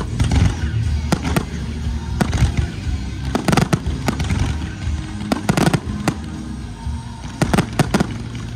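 Fireworks going off in quick succession: sharp bangs and crackling reports, bunched most densely about three and a half, five and a half and seven and a half seconds in. Music plays underneath throughout.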